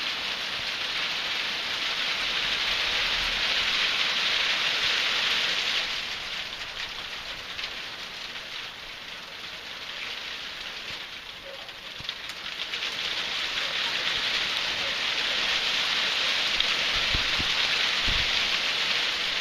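Hail falling and pattering on surfaces: a dense hiss of countless small impacts. It is heavy at first, eases for a few seconds about six seconds in, then builds back up.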